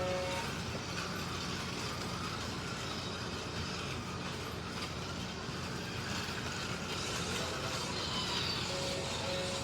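Slot cars lapping the track: the electric motors of the MR Slotcar Cunningham Corvettes and the Scalextric Mercedes 300 SLR give a steady whir, rising and falling as the cars speed up and slow for corners.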